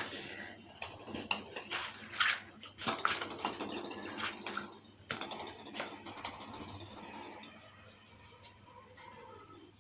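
Steady high-pitched chorus of insects, with scattered short knocks and rustles over the first six seconds or so.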